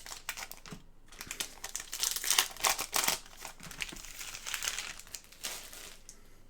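Trading-card pack wrapper crinkling as it is handled and opened: a run of irregular rustles and crackles that trails off near the end.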